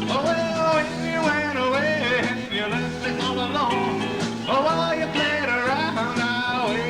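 Live rock band playing with electric guitars, bass guitar and drums. A lead line bends and slides in pitch over the band.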